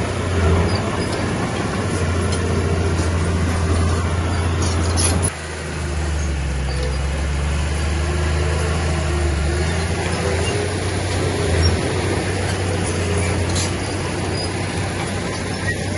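Heavy diesel earthmoving machine's engine running steadily under load. About five seconds in it briefly drops off, then carries on at a lower note.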